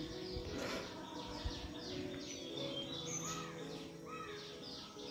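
Faint birds chirping in quick, repeated short calls, over a low steady hum.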